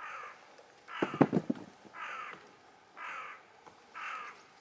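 A bird outdoors giving five calls, about one a second. A short, louder clatter of knocks comes about a second in.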